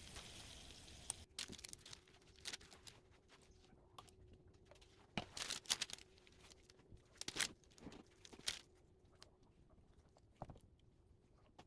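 Faint, sparse clicks, taps and light rustles of food and kitchenware being handled, the loudest cluster about five seconds in.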